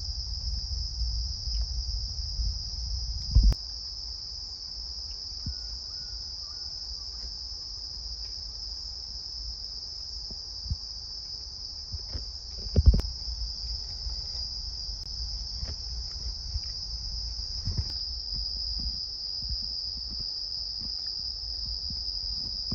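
A steady, unbroken high trill of night insects, crickets, over a low rumble. Two short knocks, one a few seconds in and a louder one about halfway through.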